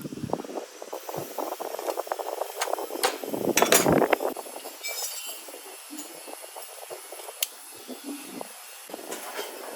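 Irregular clinks and knocks of hard metal parts and tools being handled, busiest and loudest about three to four seconds in, then sparser.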